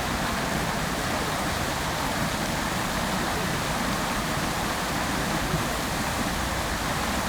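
Fountain water splashing down into its basin, an even, continuous rush of falling water.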